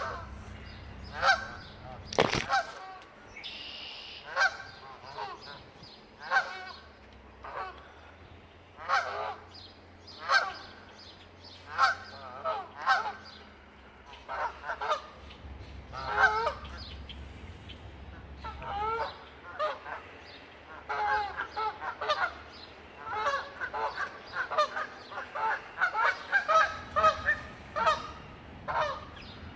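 Canada geese honking repeatedly, about one call a second, breaking into a fast run of honks in the last third. A single sharp knock about two seconds in.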